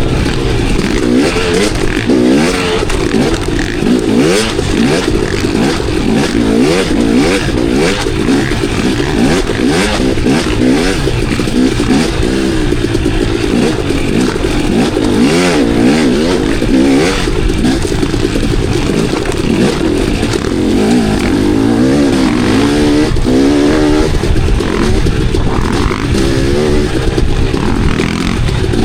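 KTM enduro dirt bike engine running hard on trail, its revs rising and falling over and over as the rider works the throttle and gears, with clatter from the bike over rough ground.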